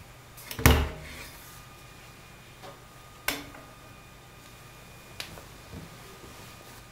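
AEG Lavamat washing machine giving a few separate knocks and clicks over a faint steady hum. The loudest comes about a second in, and three softer ones follow at uneven gaps.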